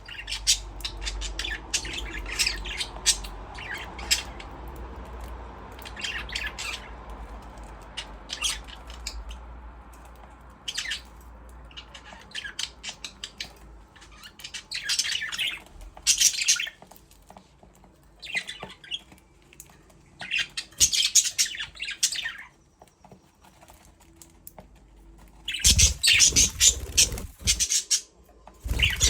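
Budgerigars chirping and squawking in short, irregular bursts of high-pitched calls, with a louder, busier stretch near the end that includes some low thuds.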